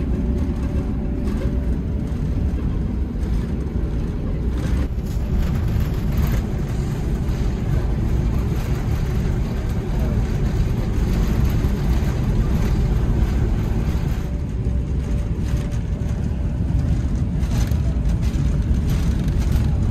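Passenger train running: a steady low rumble of wheels and running gear, holding even with no sudden events.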